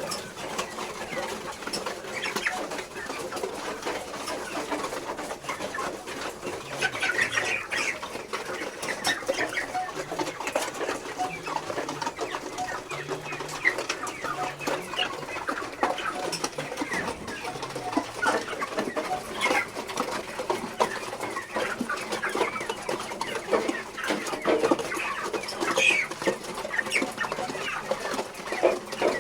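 A flock of broiler chickens clucking, many short calls overlapping in a continuous chatter.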